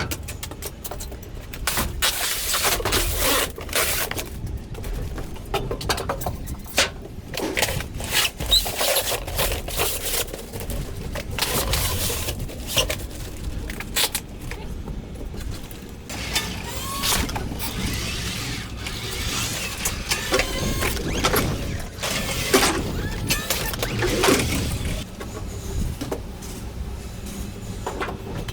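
Irregular knocks, bangs and scraping of boxed refrigerators being handled and stacked inside a shipping container, with a few short squeaks among them.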